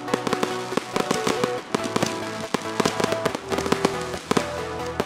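Aerial fireworks going off in quick succession, a steady stream of sharp cracks and bangs, with music playing alongside.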